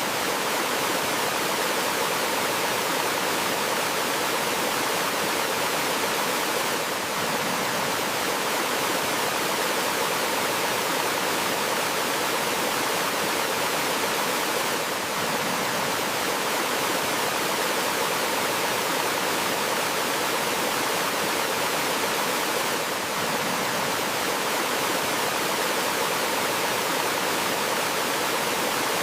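Steady rushing hiss of water pouring down a small forest waterfall, even and unbroken.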